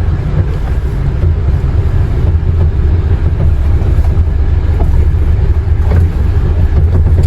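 Vehicle engine and road noise while driving: a steady low rumble.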